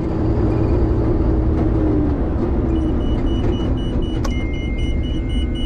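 Combine harvester running steadily with a deep engine hum and machinery rumble. A faint, fast, high-pitched beeping starts about halfway through.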